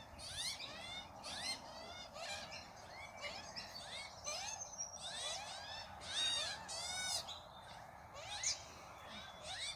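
Australian magpies calling around the feed, many short rising-and-falling notes from several birds overlapping throughout.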